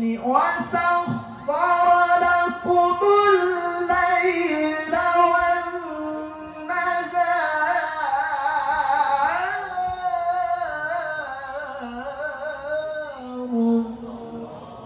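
A man's high-pitched voice chanting in Arabic in long melismatic phrases, with held notes and quick ornaments, in the style of Quran recitation. The line settles onto a lower held note near the end and fades.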